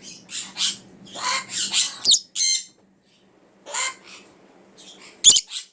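Parrot squawking, a string of short harsh calls, with one sharp loud sound near the end.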